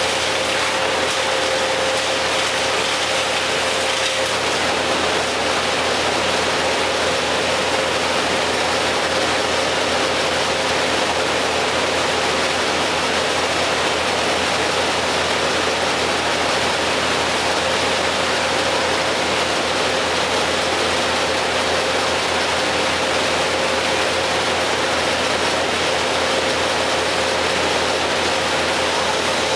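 Steady mechanical running noise from heavy machinery, unchanging throughout, with a faint steady whine that drops out after about four seconds and returns past the middle.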